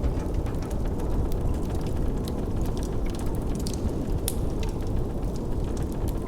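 Steady rushing blizzard wind, heavy in the low end, with scattered small pops and crackles of a wood fire.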